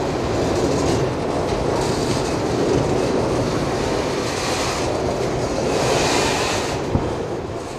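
Auto rack freight cars rolling past, steel wheels rumbling on the rails with a sharp clack about seven seconds in. The noise eases near the end as the last car goes by.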